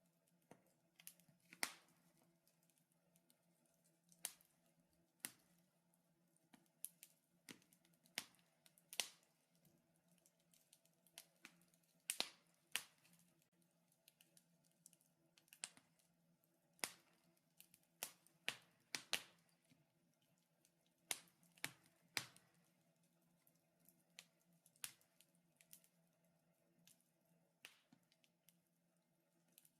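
Wood fire crackling in a fireplace: irregular sharp pops and snaps, sometimes several close together, over a faint steady hum.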